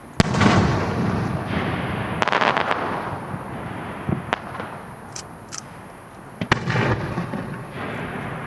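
Aerial firework shells bursting: a sharp bang just after the start and another about six and a half seconds in, each trailing off in a long rolling rumble. A quick run of crackles comes about two seconds in, and a few small pops follow.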